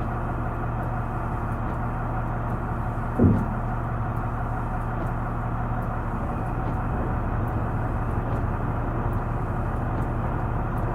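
Steady engine drone and road noise of a moving vehicle, recorded from inside it, with a single knock about three seconds in.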